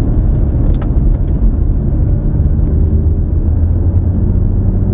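Lamborghini engine heard from inside the cabin, a steady low drone at modest speed, its pitch rising a little in the second half as power comes on.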